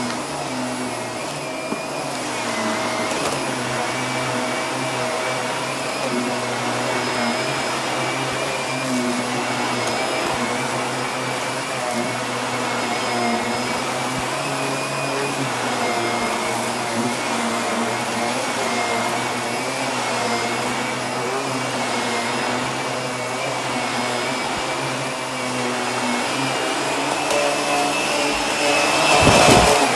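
Vacuum cleaner running steadily, a motor drone with a thin high whine on top, with a brief louder rush near the end.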